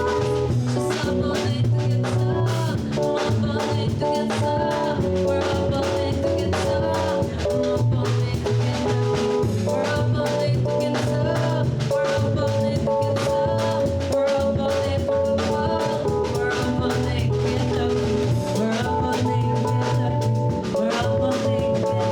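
Jazz quartet playing, with drum kit and a bass line under held melody notes.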